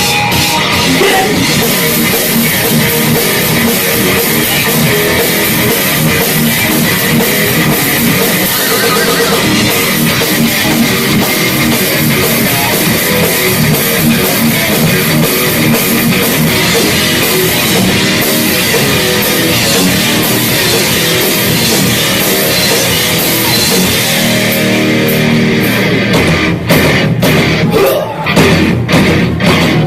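Live heavy metal band playing loud: distorted electric guitars over a full drum kit. Near the end the steady wall of sound breaks into sharp stop-start hits with short gaps between them.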